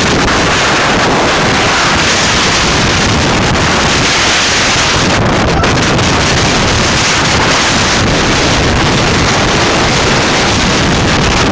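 Strong wind blowing across the camera microphone: a loud, continuous rush of wind noise that buffets the mic throughout.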